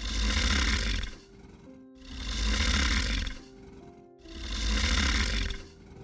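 Alligator bellowing: three long, deep bellows about two seconds apart, over soft background music.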